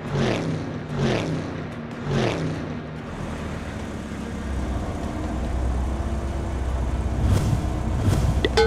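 Cartoon sound effects: three falling pitched sweeps about a second apart, then a steady low vehicle engine rumble that builds up, with two sharp hits near the end.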